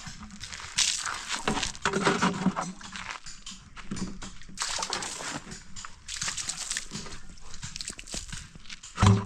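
Water being splashed onto fresh cement plaster to cure it, in a run of uneven splashes.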